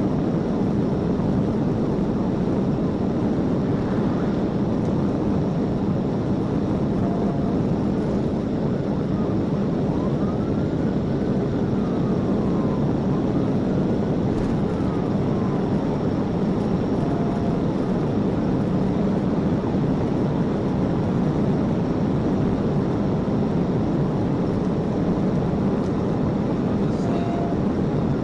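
Steady road and engine noise inside a police patrol car driving at pursuit speed, with a siren faintly wailing up and down for several cycles through the middle and again at the end. A short electronic beep sounds three times, about ten seconds apart.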